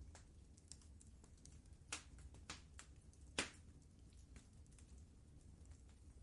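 Wood fire crackling: irregular small pops and snaps over a low steady rumble, with the loudest snap about halfway through.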